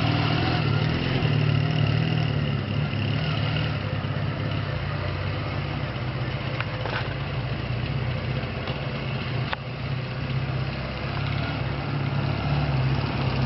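Motorcycle engine running steadily at low revs, with two faint ticks about seven and nine and a half seconds in.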